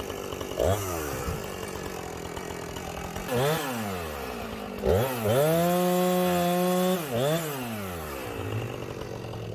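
Two-stroke chainsaw idling, revved up briefly several times, and held at full throttle for about two seconds in the middle while bucking a red oak log before dropping back to idle.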